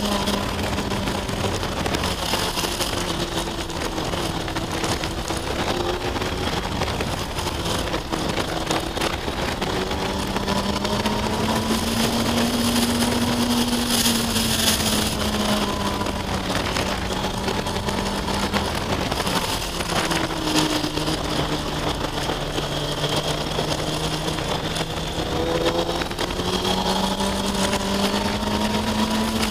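2004 Kawasaki ZX-6R 636's inline-four engine pulling steadily while the bike is ridden through bends. Its note rises and falls gently with the throttle: it dips lower for a few seconds past the middle, then climbs again near the end. Rushing wind noise runs underneath it.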